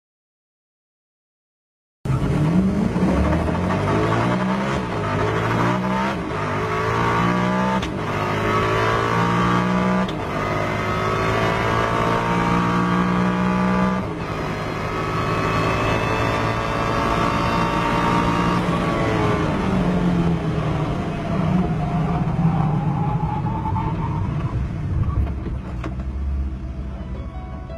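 Silence for about two seconds. Then the Koenigsegg One:1's twin-turbo V8 pulls at full throttle, revs climbing and dropping sharply at each quick upshift. About halfway the note falls away as the car brakes hard from around 300 km/h, with the engine winding down through the gears.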